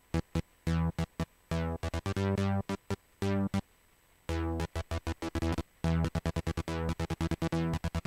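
Synthesizer playing a fast staccato trance riff: rapid short notes, a few held longer, each note starting bright and quickly darkening, with a short pause a little before the middle.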